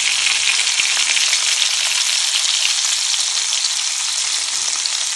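Seasoned shrimp sizzling in hot oil in a frying pan, a steady, dense crackle of frying.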